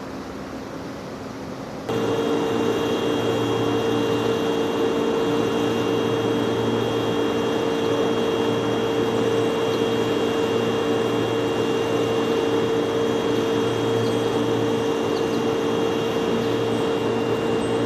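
Railway locomotive running steadily, a constant mechanical hum with a held whine that starts abruptly about two seconds in, over a low pulsing drone.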